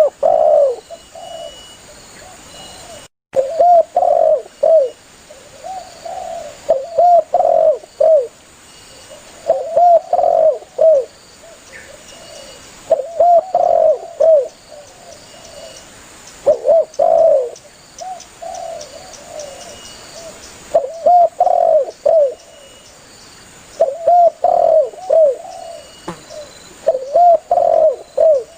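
Spotted dove (tekukur) cooing: a short phrase of three or four low hooting coos, repeated every three to four seconds. Faint high chirping runs behind it, and the sound drops out briefly about three seconds in.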